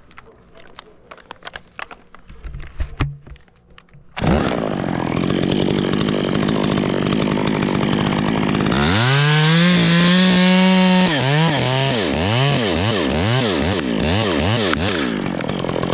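Two-stroke chainsaw cutting through a dead sugar pine limb. After a few seconds of quiet with light clicks, it suddenly goes to full throttle about four seconds in and runs steadily. The engine pitch climbs around the middle, then rises and falls over and over near the end as the cut goes through.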